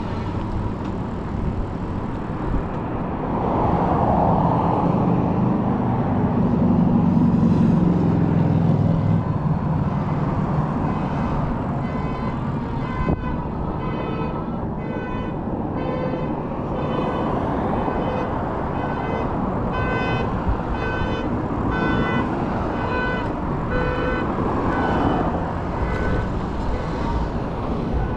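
Road traffic and wind noise heard from a moving bike, with a louder vehicle passing a few seconds in. Partway through, a repeating electronic beep starts, about one a second for roughly twelve seconds.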